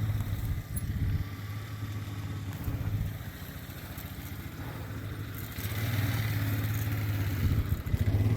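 An engine running steadily with a low throb; it fades for a couple of seconds partway through, then comes back louder about six seconds in.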